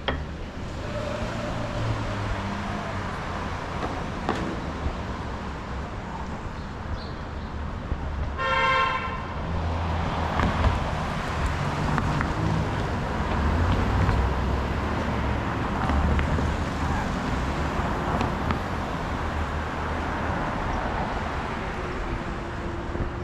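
Steady traffic rumble with a single short vehicle horn toot about eight and a half seconds in.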